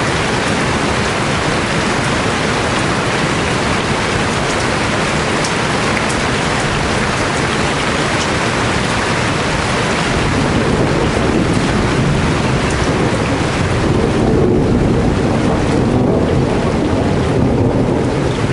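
Heavy tropical rain pouring steadily, a dense even hiss; in the second half a deeper rumble swells under it.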